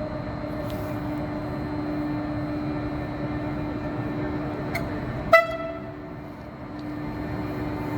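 Alstom electric locomotives moving off with a steady electric hum. A little over halfway through, one short, sharp horn toot sounds.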